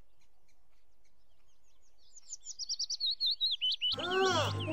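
Small birds chirping: faint scattered high chirps, then a quick run of loud high twittering from about two seconds in. Music with sliding tones comes in near the end and is as loud as the birds.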